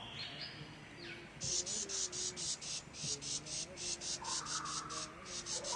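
A forest insect calling in a fast, even pulsing trill of about five high chirps a second, starting about a second and a half in.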